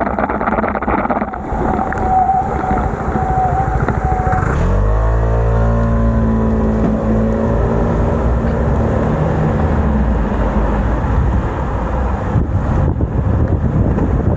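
Wind and road noise on a bicycle-mounted microphone in the rain. About four and a half seconds in, a motor vehicle's engine rises in pitch as it pulls away close by, then runs steadily alongside until near the end, with a couple of knocks after it.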